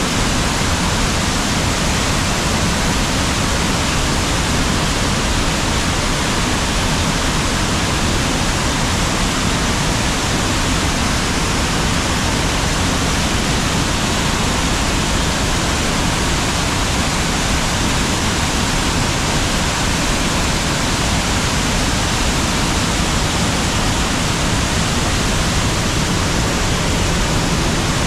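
Waterfall on a river, its water rushing with a steady, unchanging hiss.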